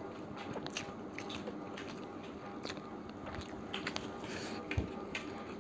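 Faint biting and chewing of mouthfuls of mutton kacchi biryani eaten by hand, with scattered small clicks.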